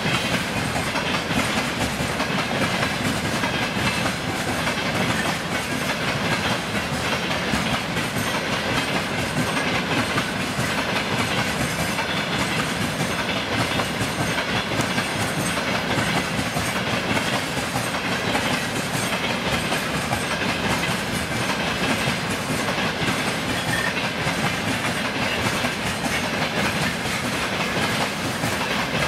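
Freight train of railway tank cars rolling past: steady noise of steel wheels on the rails, with a continual run of wheel clicks over the track.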